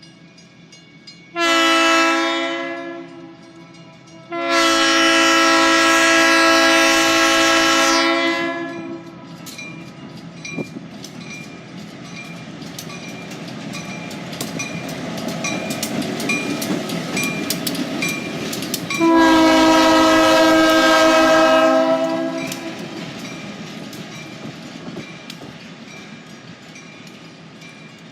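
EMD SW1001 switcher locomotive passing, its multi-note air horn sounding a short blast, then a long one, and another long one about eleven seconds later. Between the blasts come the locomotive's rumble and the clicking of wheels over rail joints, growing louder then fading away.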